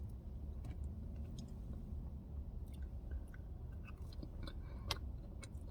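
A person chewing a soft, no-longer-crunchy fast-food onion ring close to the microphone, with small mouth clicks and one sharper click about five seconds in.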